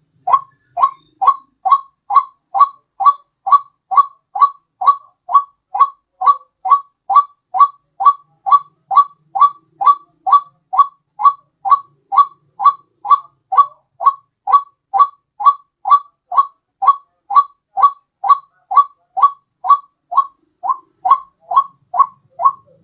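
White-breasted waterhen call played as a bird lure: a loud, monotonous series of identical calls, about two a second, repeated without a break.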